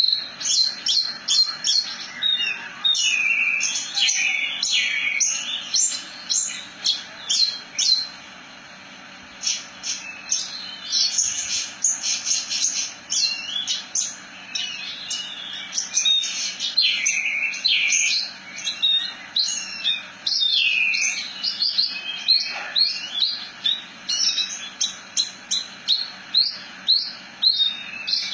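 Horsfield's bush lark (branjangan) singing a fast, unbroken run of high chirps, whistles and rolling trills, with one short pause about eight seconds in.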